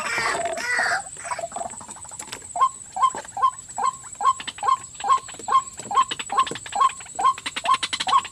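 White-breasted waterhen calling: falling calls at first, then from about two and a half seconds in a steady run of short repeated notes, about two or three a second. A steady high insect drone runs underneath.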